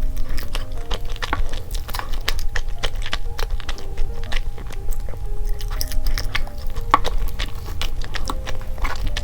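Close-miked chewing and wet mouth clicks of someone eating a homemade chocolate crepe cake, many small sharp clicks and smacks in quick irregular succession.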